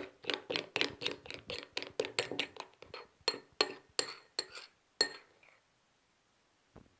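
A utensil clinking against a glass bowl, about four sharp ringing clinks a second, typical of stirring slime ingredients. The clinks stop about five seconds in, and a single faint knock follows near the end.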